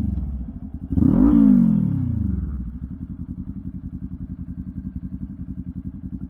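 Kawasaki Ninja 400's parallel-twin engine through a LeoVince aftermarket exhaust, blipped once about a second in, revving up and falling straight back, then idling with an even pulsing beat.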